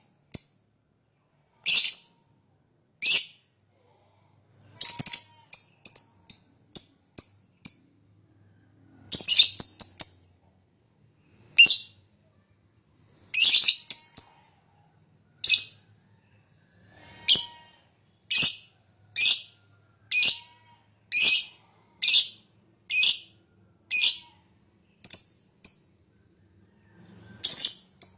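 Lovebird calling in short, sharp, high-pitched chips, some single and some in quick runs of several, with silent gaps between: the rapid ticking 'ngetik' calls of a fighter lovebird.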